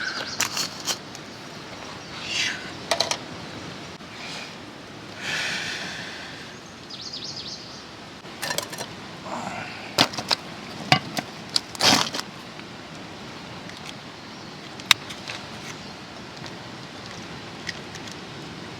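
Scattered sharp clicks and knocks, loudest in a cluster about ten to twelve seconds in, over a steady background hiss.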